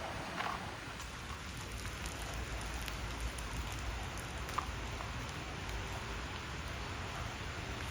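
Steady summer rain falling, an even hiss with a few sharper single drops standing out.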